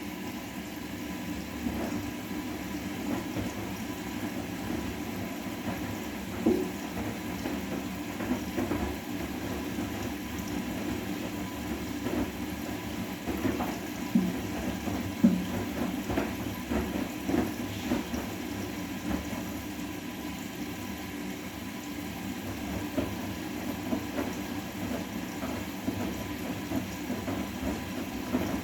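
Bosch front-loading washing machine running a wash cycle: water sloshing and churning steadily in the drum, with small irregular splashes.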